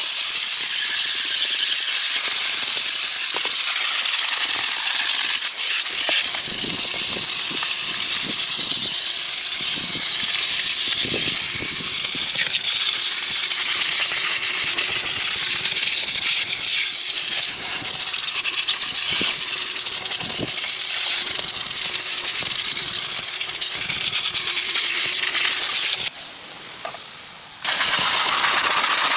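A loud, steady hiss of spray or rushing air, with scattered light knocks underneath; it drops away briefly near the end, then returns.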